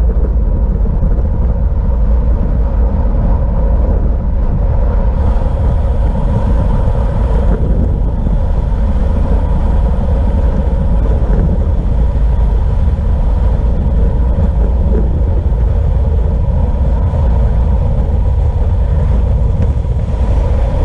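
Wind rumbling steadily on the camera's microphone as the bicycle rides along, with a steady hum under it.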